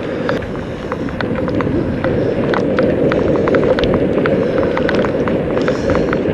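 Bicycle riding along a road: a steady rumble of tyre and riding noise with frequent irregular small clicks and rattles.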